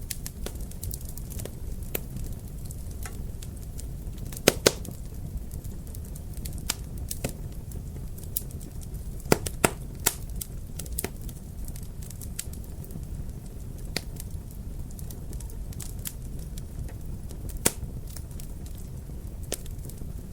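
Wood fire crackling in a fireplace: a steady low rumble under scattered sharp pops and snaps. The loudest are a pair of pops about four and a half seconds in, a few around nine to ten seconds, and one more near the end.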